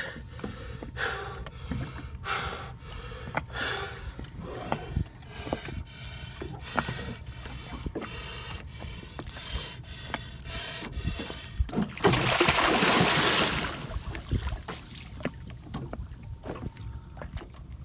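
Small waves slapping and knocking against a sailboat's hull, with creaks from the boat. About twelve seconds in comes a loud rush of noise lasting about a second and a half.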